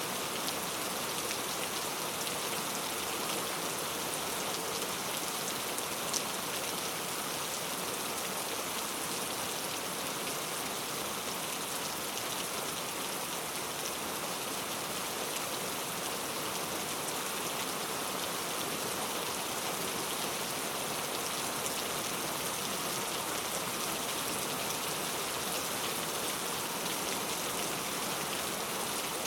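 Steady rain falling on a surface, an even dense patter of drops, with one sharper drop tick about six seconds in.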